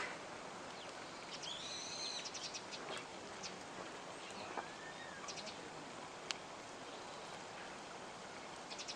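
Wild birds chirping and calling outdoors, with a few sharp crackles from a wood campfire. One distinct loud pop comes about six seconds in.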